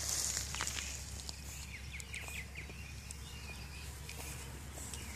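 Outdoor ambience: small birds chirping in short calls, mostly in the middle stretch, over a steady low hum and a few faint clicks.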